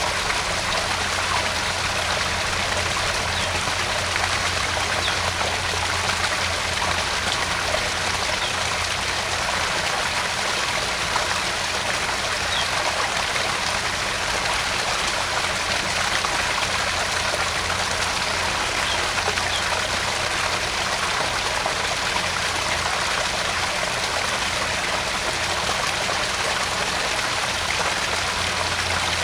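Small garden pond waterfall: water splashing and trickling steadily into the pond, with a steady low hum underneath.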